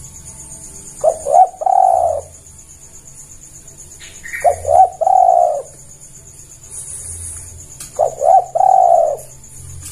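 Spotted dove (tekukur) cooing: three calls, each a couple of quick short notes running into a longer drawn-out coo, repeated about every three and a half seconds. This is the dove's territorial call, used as a lure call.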